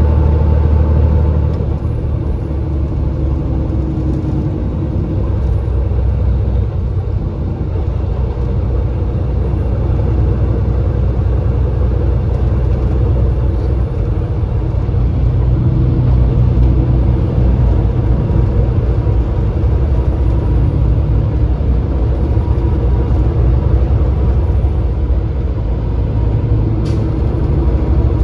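Semi truck's engine running under way, a steady low rumble with road noise, its pitch rising and falling slightly.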